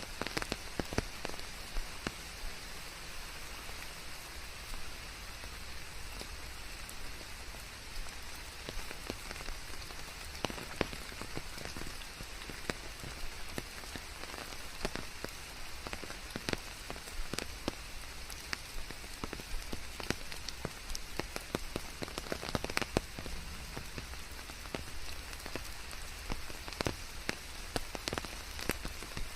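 Steady rain falling, with single drops striking close by at irregular intervals over an even hiss.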